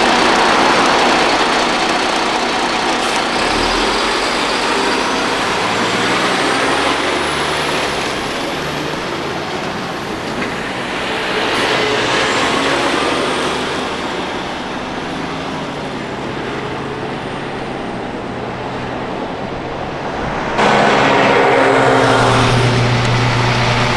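Heavy military trucks driving, with diesel engine and tyre noise that swells and fades as they pass. About 20 seconds in the sound switches abruptly to another truck whose engine gives a louder, steady low hum.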